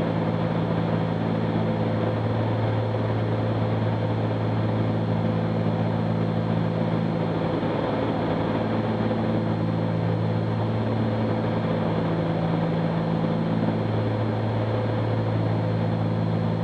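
Twin piston engines and propellers of a Cessna 310Q in flight, a steady drone heard in the cabin.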